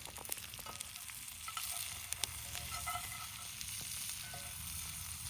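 Potatoes, sausage, onions, peppers and mushrooms sizzling in a cast iron skillet, a steady frying hiss with a few sharp pops.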